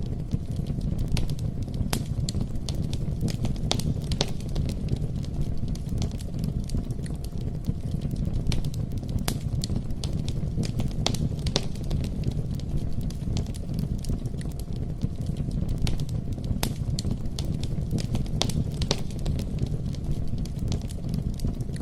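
Wood bonfire burning: irregular sharp crackles and pops, a few a second, over a steady low rumble of flames.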